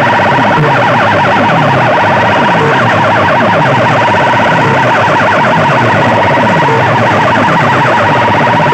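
Very loud DJ sound-box system playing an electronic siren-like alarm effect: a fast warbling tone over falling bass sweeps that repeat a bit faster than once a second.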